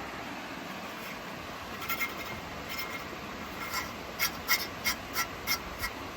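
Tree branch rustling and scraping as a cat plays with it: a few short scratches, then a regular run of sharp scratchy strokes, about three a second, in the second half.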